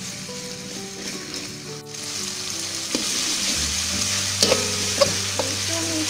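Ground chilli spice paste sizzling steadily as it is sautéed in oil in a wok. A metal spatula stirs it and clicks against the pan a few times in the second half.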